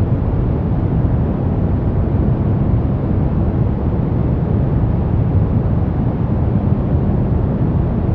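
Steady brown noise: an even, deep rumbling hiss weighted to the low end, with no changes or events.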